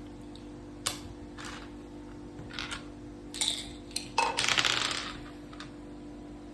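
Mak saka dice and playing pieces clicking and rattling on the board: a sharp click about a second in, a few short clatters, then a dense rattle lasting about a second just past the four-second mark, over a steady low hum.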